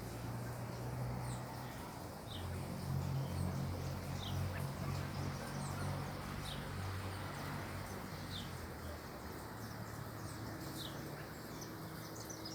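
A bird giving short, high chirps, one about every second and a half, over a low steady hum.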